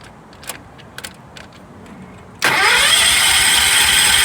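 A few light clicks, then about two and a half seconds in the John Deere 314's single-cylinder Kohler engine starts on a little choke and runs loud and steady.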